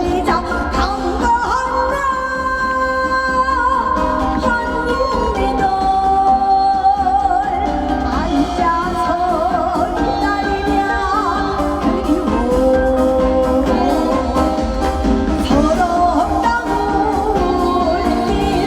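A woman singing a Korean folk-style song with wide vibrato over amplified accompaniment with a steady bass.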